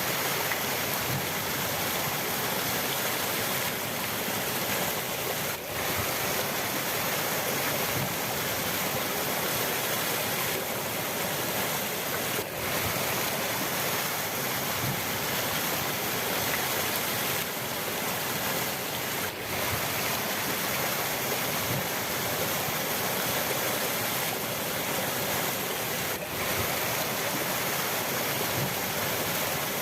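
River water rushing steadily, an even wash of water noise with a brief dip about every seven seconds.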